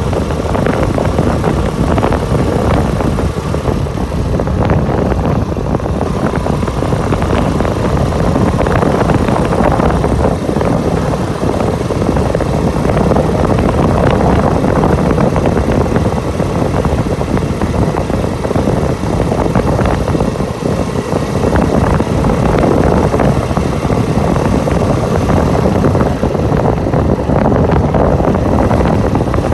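Motorcycle engine running steadily while riding, with a loud, even rumble of wind and road noise on the microphone.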